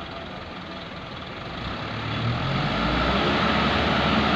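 Diesel dump truck engine running, growing clearly louder from about two seconds in as the low rumble builds.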